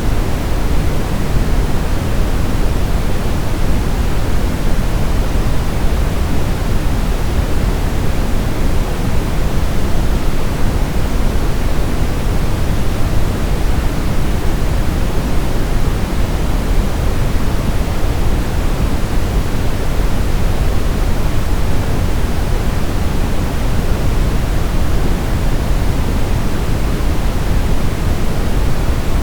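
Brown noise: a steady, even rumble of synthetic noise weighted toward the deep low end, unchanging throughout.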